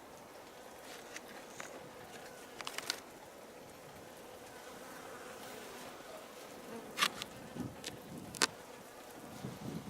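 Honey bees flying around their hive, a steady hum of buzzing. A few sharp clicks or taps stand out about three seconds in and twice more later on.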